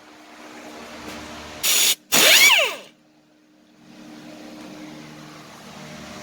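A short burst of hiss, then a power tool runs briefly and winds down with a falling whine, about two seconds in.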